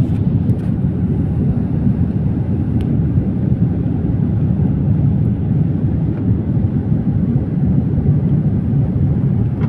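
Steady low rumble of a jet airliner's engines and airflow heard from inside the passenger cabin during the take-off climb.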